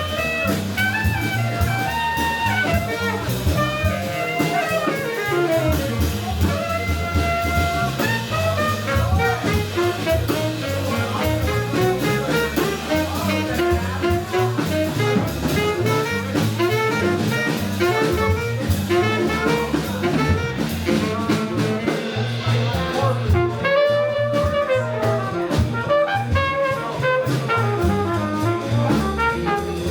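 Live jazz combo playing: a horn carries a moving melodic line over a drum kit and low accompaniment, continuous and steady in level.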